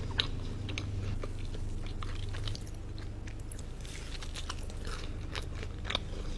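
A person biting into and chewing a pecan praline cookie, with scattered small crunches.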